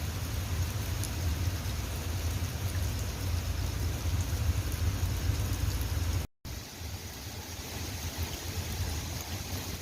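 Steady rain falling, with a low rumble underneath. The sound cuts out for a split second about six seconds in, and the rumble is fainter afterwards.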